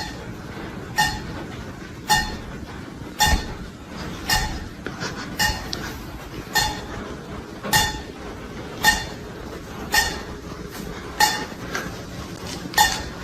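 A small object being struck to a ringing clink, about once a second, a dozen times in a steady rhythm.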